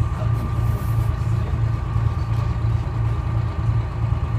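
The Detroit Diesel 6V71 two-stroke V6 diesel of a 1970-71 GMC New Look bus idling, a steady low throb that pulses about three times a second, with a thin steady whine over it.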